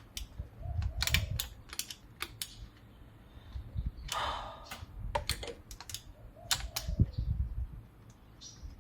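Irregular sharp metallic clicks and light knocks from hand tools working on an engine, coming in small clusters, as a long thermostat housing bolt is slowly backed out.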